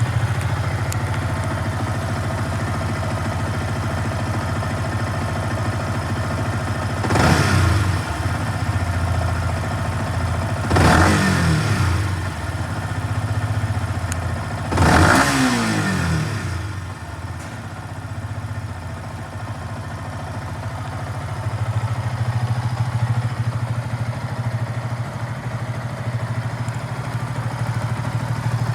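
Yamaha YZF-R15's single-cylinder four-stroke engine idling, blipped three times about four seconds apart; each rev climbs quickly and falls back to idle.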